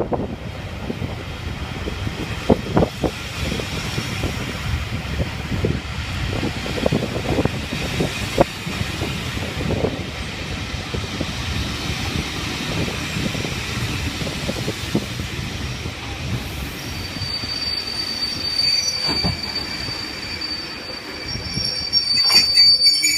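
A train rolling along rails, with irregular knocks and clicks over the track, and a high wheel squeal that comes in about two-thirds of the way through.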